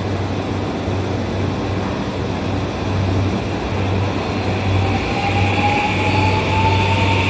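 Electric train moving on the next track. Its whine rises in pitch from about halfway through, over a steady low hum.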